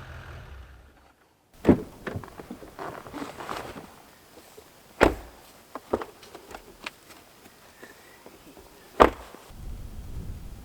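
Music fading out, then a series of sharp knocks and thuds with lighter clicks between them; three loud ones fall about four seconds apart.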